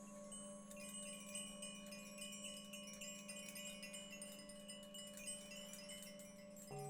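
Chimes tinkling in a dense, irregular run of high, bright notes, starting under a second in, over the steady hum of a singing bowl. Just before the end, a new, lower bowl tone comes in with a slow pulsing beat.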